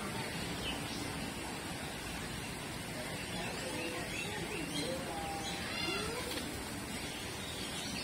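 Several birds calling in an aviary, short chirps and gliding calls, over a steady background noise. The calls come thickest about five to six seconds in.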